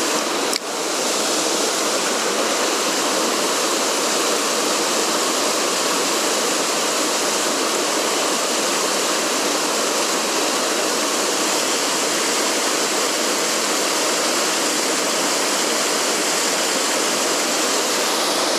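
Mountain stream water rushing steadily over rocks, an even, unbroken noise, with a brief dip about half a second in.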